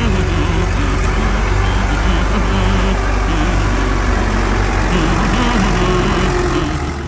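Tractor engine idling with a steady low rumble, cutting off abruptly at the end.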